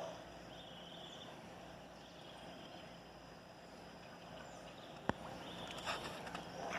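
Quiet outdoor ambience: a steady background hiss with faint high chirps in the first second and one sharp click about five seconds in.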